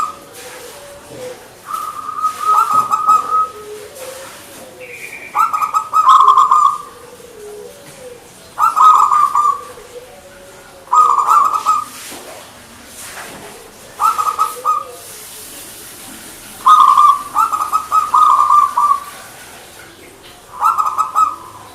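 Zebra dove (perkutut) cooing in repeated phrases of quick, rippling notes, a phrase every two to three seconds.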